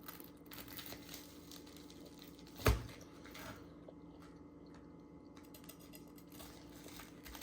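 Faint crunching and small clicks from freshly fried panko-crusted chicken katsu, over a low steady hum, with one sharp knock about two and a half seconds in.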